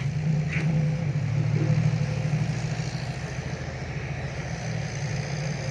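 Dump truck's diesel engine running steadily with a loud, deep exhaust rumble.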